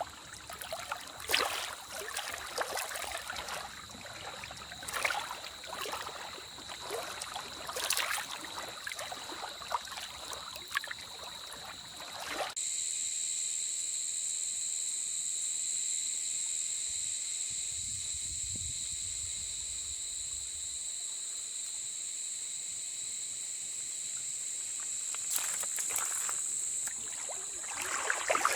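Outdoor lakeside ambience: scattered small clicks and knocks with light water sounds for about twelve seconds. Then an abrupt change to a steady high-pitched hiss, with a few more knocks near the end.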